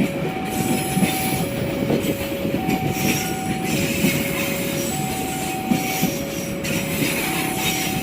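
A train passing close by: steady rumble with wheel clatter and a few sharp clicks. Over it an electronic warning alarm alternates between a higher and a lower tone, each held about a second, repeating steadily.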